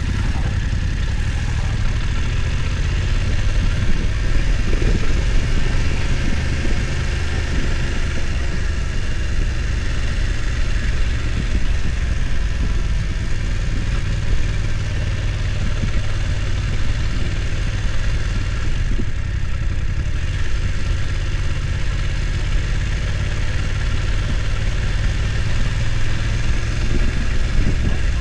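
BMW F900 XR motorcycle's parallel-twin engine running steadily at low revs.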